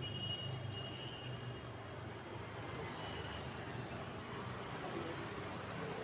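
Small birds chirping: quick, high, falling chirps, several a second for the first couple of seconds and then only now and then. Under them runs a low hum that fades out after about two seconds.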